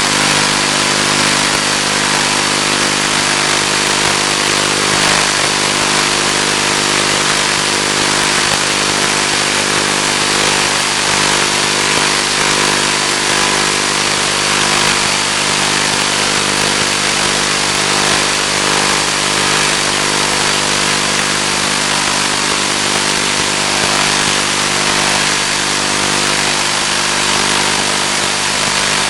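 Finwing Penguin's electric motor and propeller running at a steady speed: a constant hum with a thick layer of hiss.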